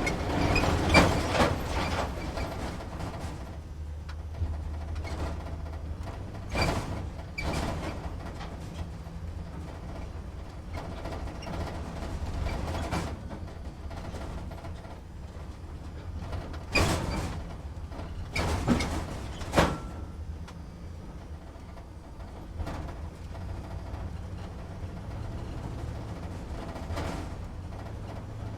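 Truck heard from inside the cab at idle or slow drive: a steady low engine rumble with occasional sharp rattles and clunks from the cab, a cluster of them about two thirds of the way through.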